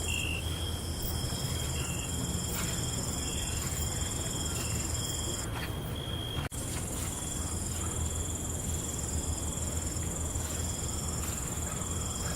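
Night insect chorus: crickets trilling steadily at several high pitches, with shorter chirps among them over a steady low rumble. The sound cuts out for an instant about halfway through.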